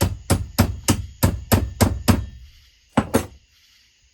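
Hammer blows: a run of eight sharp strikes about three a second, then a short pause and two more quick strikes near the end.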